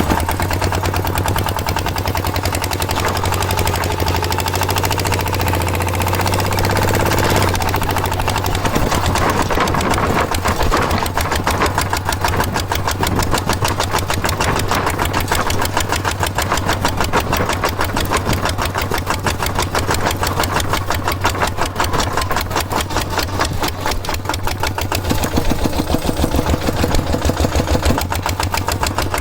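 A small engine running with a fast, even chugging beat. About a quarter of the way in, a steady low hum underneath drops away and the beat stands out more.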